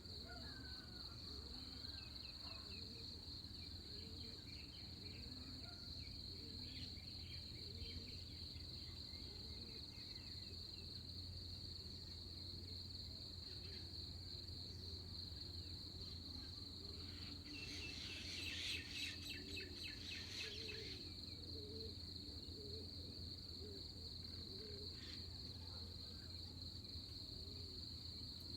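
Dawn insect chorus: a steady, high-pitched cricket trill throughout, with scattered faint bird chirps and a low background hum. About two-thirds of the way in, a louder, rapid rattling call lasts about three seconds.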